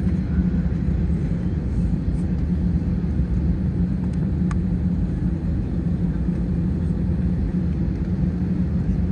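Steady low drone inside the cabin of an Airbus A320 with its engines running, with a constant low hum and one faint tick about halfway through.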